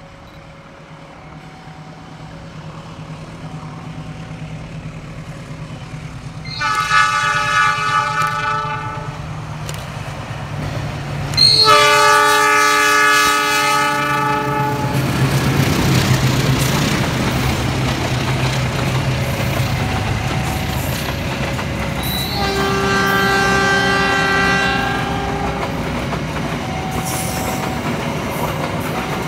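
GE-built CC 206 diesel-electric locomotive approaching with its engine rumble building, then sounding its multi-tone air horn three times, about three seconds each, the second blast the loudest. From about halfway through, the locomotive passes and the passenger coaches follow, with steady wheel rumble and clatter on the rails.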